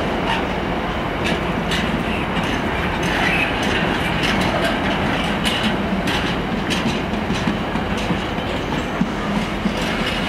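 Empty container flat wagons of a freight train rolling past at close range: a steady rumble of steel wheels on rail, broken by irregular sharp clicks and clacks as the wheels run over the track.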